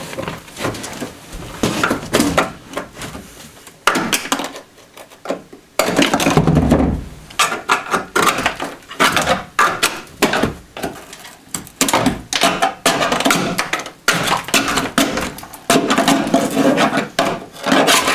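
Cracked sound-deadening being scraped off a car's steel floor pan with a hand tool, in irregular rasping strokes with short pauses between them.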